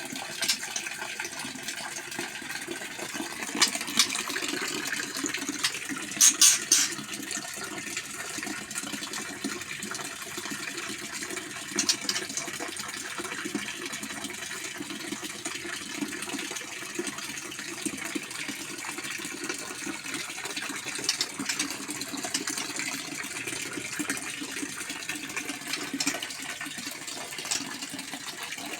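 Steady rushing noise like running water, broken by a few brief sharp clicks or chirps, the loudest a quick cluster about six seconds in.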